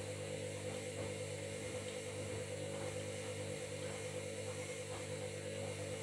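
Washing machine running with a steady motor hum and whine, the level even throughout.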